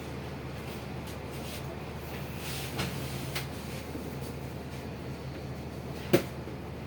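Steady low rumble and hum of a passenger train carriage, with a few light clicks and one sharp knock about six seconds in.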